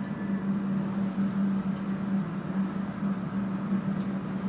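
Electric fans running to clear soldering fumes: a steady hum with one constant low tone under an even rush of air.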